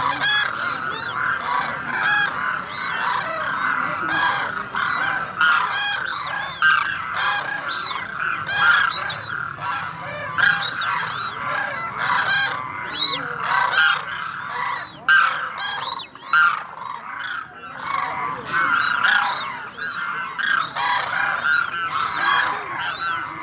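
A flock of demoiselle cranes (koonj) calling, with many honking calls overlapping without a break.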